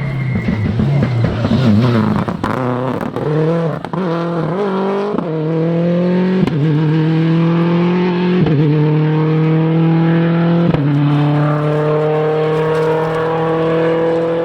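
Four-wheel-drive rally car engine pulling hard through the gears. Its note dips early on, then climbs in short steps, with a sharp crack at each gear change about every one to two seconds. Later it holds a long steady pull.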